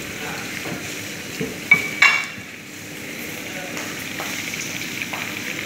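Food frying in hot oil on the hob, a steady sizzle. About two seconds in come two sharp clinks that ring briefly.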